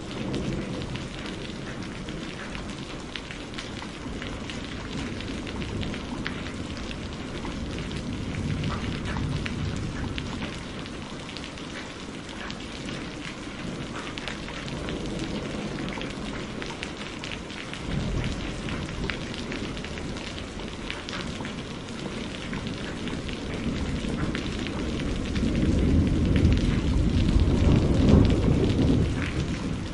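Steady rain with fine pattering drops, under rolling thunder. A deep rumble of thunder builds over the last several seconds and peaks near the end.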